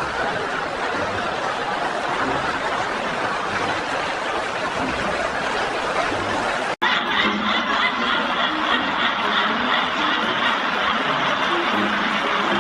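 A group of people laughing without a break. It cuts off abruptly for an instant about seven seconds in and then carries on.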